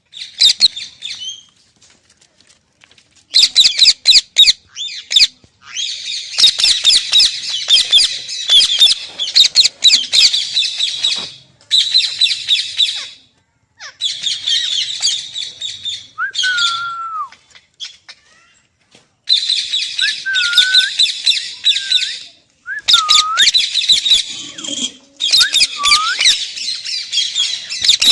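Pet parrot screeching and chattering in harsh, rapid bursts lasting from about a second to several seconds, with short gaps between them. In the second half, a few short whistled notes break in among the bursts.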